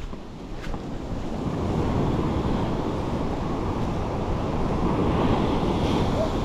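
Surf on a beach: a wave swells about a second in and rushes up the shore, easing near the end, with wind buffeting the microphone.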